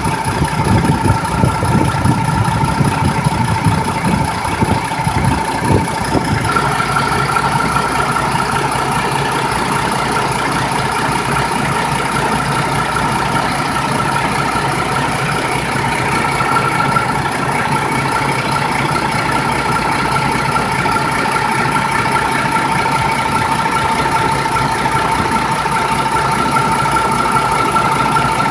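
MAN diesel engine running steadily with a whine over its note. It rumbles roughly for about the first six seconds, then settles to a smoother, even run.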